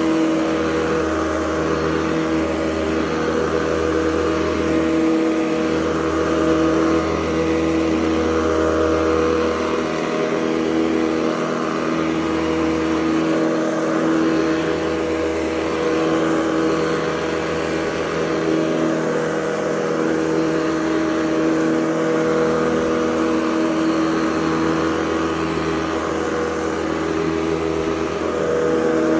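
Hoover Convertible U4101 upright vacuum cleaner running steadily: a motor hum with a steady whine over airflow hiss, wavering slightly in loudness.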